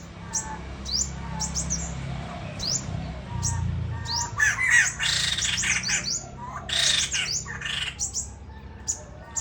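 A bird calling: a string of quick, high, upward-sweeping chirps, broken in the middle by several louder, harsh squawks.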